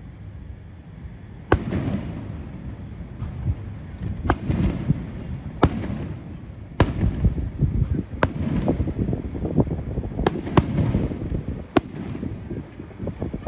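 Aerial fireworks display: about ten sharp bangs of shells bursting at irregular intervals, over a continuous low rumble.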